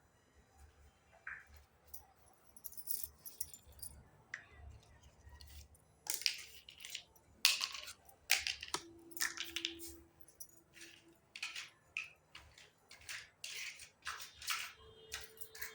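Small toy kitchen pieces clicking, tapping and clinking as they are handled and set down, in irregular taps that grow busier and louder about halfway through, with a brief faint ringing tone once or twice.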